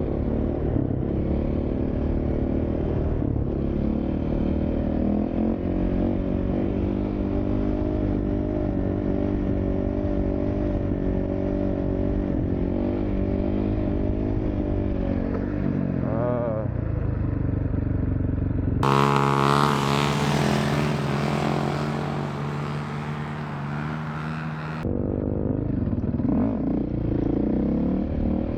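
Dirt bike engine running and revving, its pitch rising and falling as the throttle is worked. About two-thirds of the way in the sound changes for some six seconds to a steadier engine note before the revving returns.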